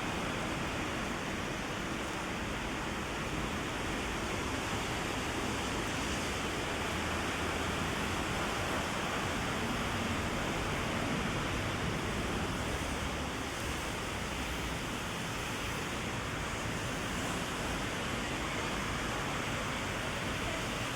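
Heavy rain falling steadily on an umbrella held overhead and on the street, a constant even hiss.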